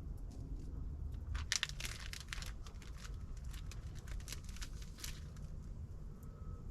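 Plastic food packaging crinkling and tearing as it is handled and opened, a dense run of crackles from about a second and a half in to about five seconds, over a low rumble.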